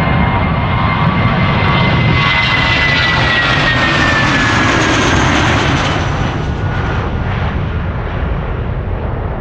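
Airbus A320-200 jet engines heard as the airliner passes close by: a loud roar with a high whine that slides down in pitch as it goes past, easing off about six seconds in.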